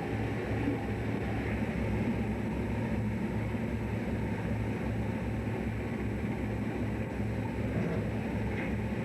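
Fishing boat's engine running, a steady low drone with an even hum.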